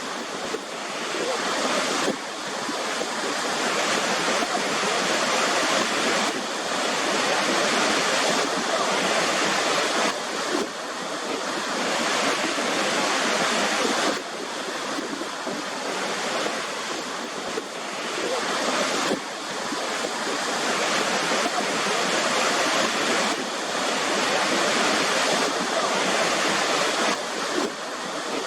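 Waterfall: steady rushing of falling water, swelling and easing slightly every few seconds.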